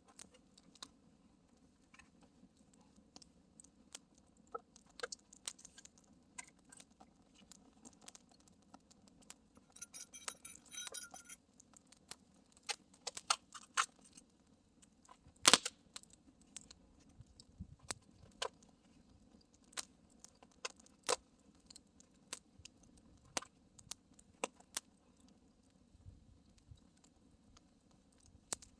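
Wood campfire crackling with irregular sharp pops and snaps, the loudest pop a little over halfway through.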